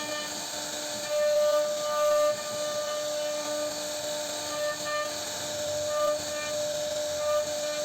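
CNC router spindle whining at a steady pitch while its bit cuts into a wooden board, with a hiss of cutting noise that swells louder a few times.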